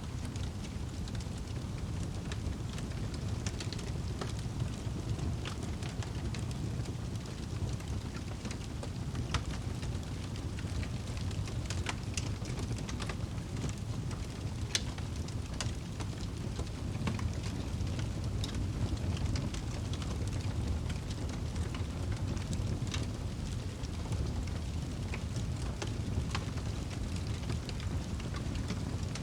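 Wood fire burning in a fireplace: a steady low noise from the flames with frequent sharp crackles and pops at irregular moments.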